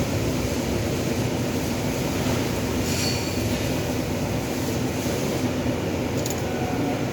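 A steady machine drone with a low hum running underneath. Short high-pitched ticks or squeaks come about three seconds in and again near the end.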